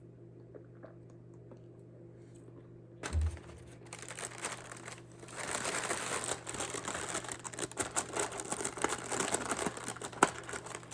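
Paper food wrapping crinkling and rustling as it is handled and unwrapped, after a low thump about three seconds in.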